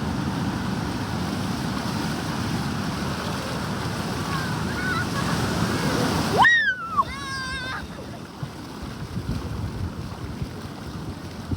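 Ocean surf breaking steadily on a beach, with wind buffeting the microphone. About six seconds in, the surf noise drops away to quieter wind, and a brief high squeal that rises and then falls is heard, followed by a second or so of wavering high cries.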